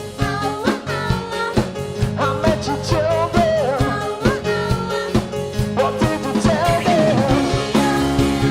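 A band playing an upbeat song with a lead singer, over a steady drum beat.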